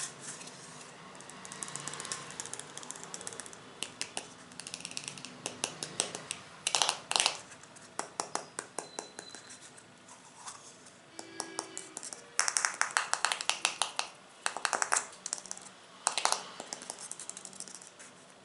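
Tapping on assorted small objects: rapid flurries of sharp taps and clicks, broken by short pauses.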